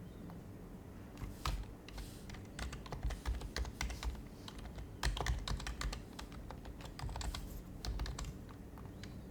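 Typing on an HHKB Professional HYBRID Type-S keyboard with its silenced Topre keys: soft, quick keystrokes in short bursts, starting about a second in and easing off near the end.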